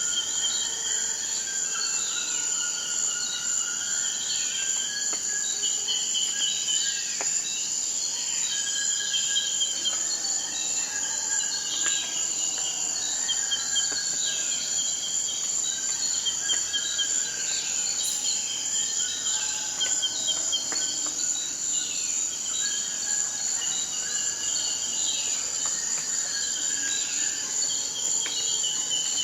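Forest ambience: a steady, high-pitched insect drone, with many birds chirping and calling over it in short notes, often sliding downward.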